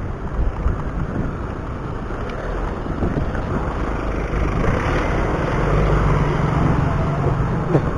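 Wind rushing over the microphone and road noise while riding a bicycle, with passing motor traffic. A vehicle engine's hum grows louder a little past the middle, then fades near the end.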